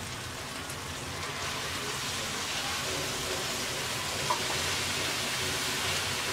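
Onion-tomato masala frying in oil in a steel kadai, a steady sizzle that grows a little louder about two seconds in as wet chopped spinach goes into the hot pan.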